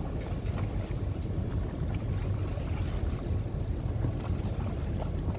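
Small motorboat under way: a steady low engine drone mixed with wind and water noise.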